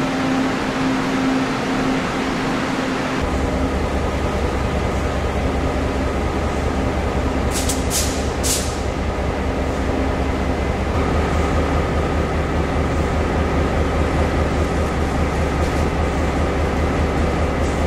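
Passenger train running with a steady rumble. A deeper low rumble comes in abruptly about three seconds in, and three short hisses come close together about eight seconds in.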